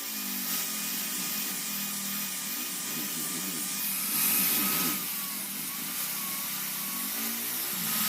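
Electric power tool running steadily with a constant whine, harsher and louder for about a second around four seconds in.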